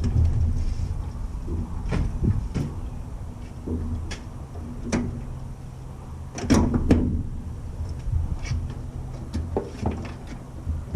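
Scattered knocks, clicks and clatter of objects being handled, the loudest cluster about six and a half seconds in, over a low steady rumble.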